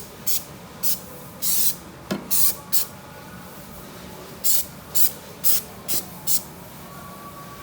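Spray paint hissing out in a dozen or so short bursts, stopping about six and a half seconds in.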